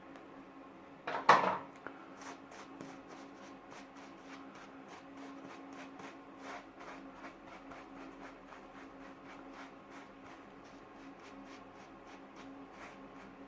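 A single knock about a second in. Then a single-edge frame safety razor scrapes through lathered whiskers in short, repeated strokes, a few crackling strokes a second, over a faint steady hum.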